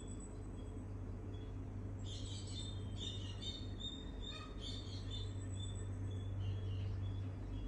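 Small birds chirping: a quick, dense run of high twittering calls from about two seconds in until past six seconds, with a few scattered chirps around it. A steady low hum runs underneath.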